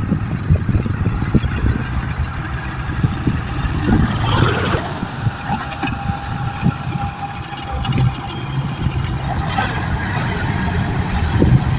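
Dump truck engine running with a steady low rumble, with irregular knocks and clatter, while the truck is loaded with soil. A brief harsher burst comes about four seconds in.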